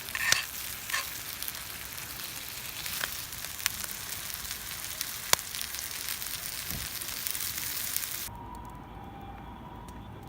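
Food sizzling over a wood campfire, a steady hiss with scattered sharp pops. The sizzling cuts off suddenly about eight seconds in, leaving a quieter background.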